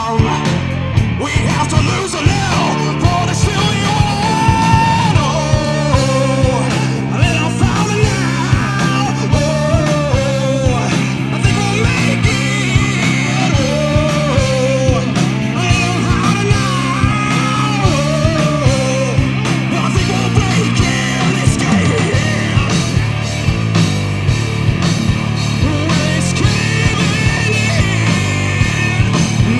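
Rock band playing live, with drums, electric guitar and bass under a lead vocalist singing. The singing drops out about two-thirds of the way through while the band plays on.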